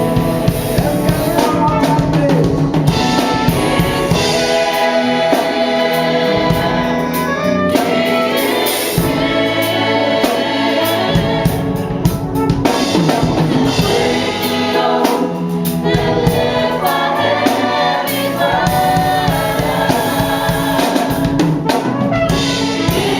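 A choir and congregation singing a slow gospel song with instrumental accompaniment.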